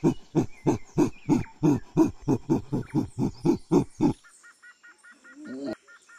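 Gorilla hooting: a rapid, even series of low hoots, about four a second, that stops about four seconds in. Faint, quick high chirps follow.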